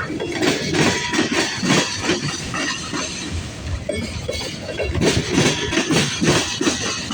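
Loaded freight train cars rolling past, their steel wheels clanking and knocking irregularly on the rails over a steady rumble.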